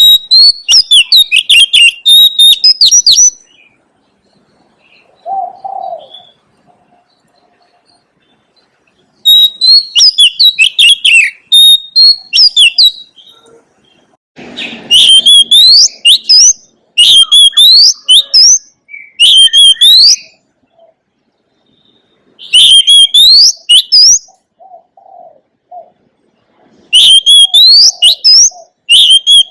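Oriental magpie-robin singing loud phrases of rapid, varied whistled notes, a few seconds each with pauses between them. A soft, lower call is heard in two of the pauses.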